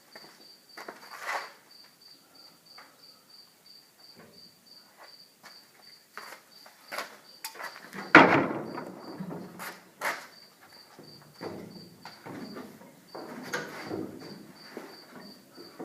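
A cricket chirping steadily, about three chirps a second, under scattered knocks and clanks, with the loudest knock about eight seconds in.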